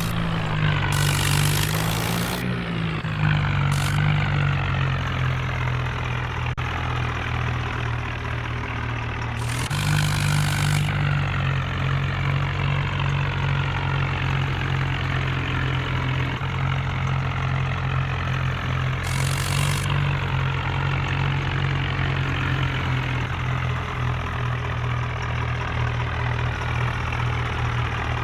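Tractor engine running steadily throughout. Brief bursts of rushing noise break in near the start, around the middle, and about two-thirds of the way through.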